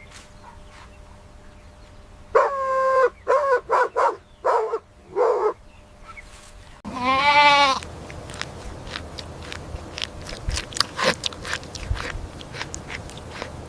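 Goat bleating: a run of five short calls, then, after a cut, one long quavering bleat about seven seconds in, followed by scattered clicks and taps.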